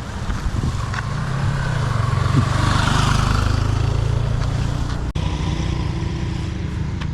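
Honda XR150's single-cylinder engine running steadily on the move, under a rushing hiss that swells about three seconds in. The sound cuts out for an instant about five seconds in.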